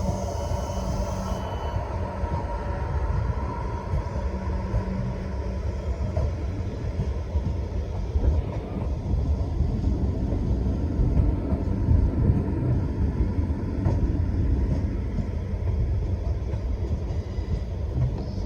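Passenger train at a station: a continuous low rumble of wheels and running gear on the track. A faint high tone sounds in the first second or so.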